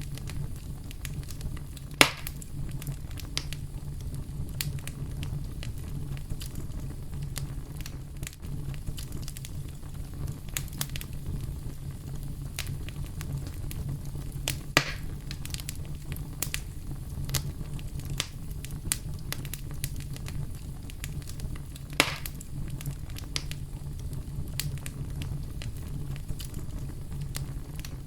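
Campfire crackling, with dense small clicks and three louder pops, over steady deep brown noise.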